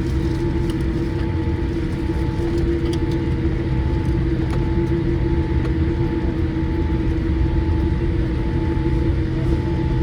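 Cabin noise inside a Boeing 787-8 taxiing on the ground: a steady low rumble with a constant hum of several held tones.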